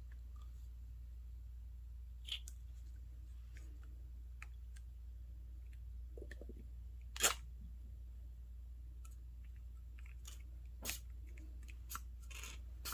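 Faint handling sounds of small objects on a desk: a few scattered clicks and taps, the loudest about seven seconds in, over a low steady hum.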